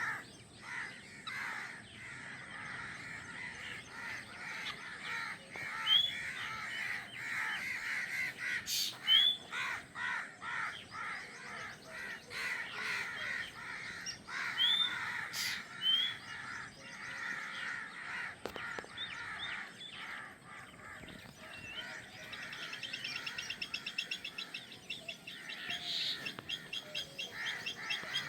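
Newly hatched drongo chicks calling in the nest: a steady scratchy chatter with sharp rising chirps now and then. About two-thirds of the way through, a fast, even rattling trill starts above it.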